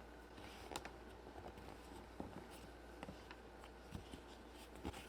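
Faint scattered taps, clicks and soft rustles of hands handling Play-Doh and small plastic toy pieces, over a low steady hum.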